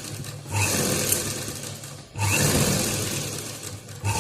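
Electric sewing machine stitching in runs, pausing briefly near the start and again about two seconds in before running on.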